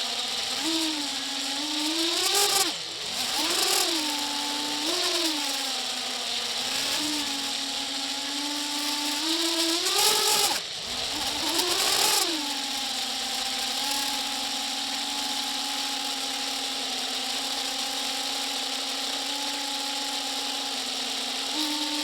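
A small motor or engine revving up and down several times, dropping away briefly about three seconds in and again about ten seconds in, then running steadily at one speed.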